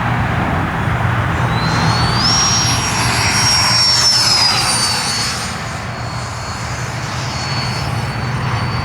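Electric ducted-fan model F-22 jet flying past with a steady rush of air. A high fan whine rises in pitch about two seconds in, holds, then drops a little in pitch just after four seconds as the jet passes, and carries on fainter.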